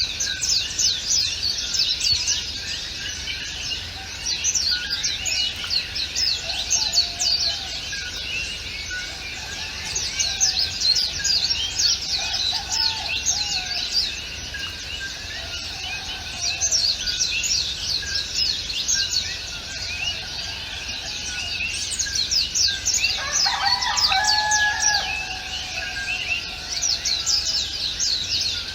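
Chorus of small songbirds: many quick, high chirps sweeping downward, coming in bursts that swell and fade every few seconds. About three-quarters of the way through, a lower, longer call with several tones stands out over the chirping.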